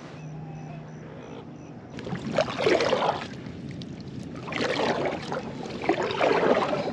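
Kayak paddle strokes through the water: three swishing strokes, starting about two seconds in and then about a second and a half apart.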